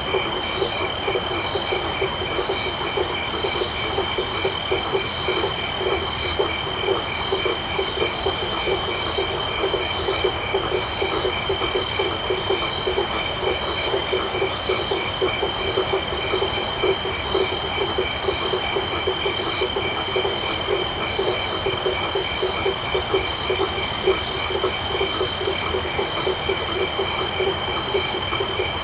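Night chorus of insects and frogs: several insects trill steadily at different high pitches, while frogs call in a fast, continuous pulsing lower down. A few brief, very high chirps come and go.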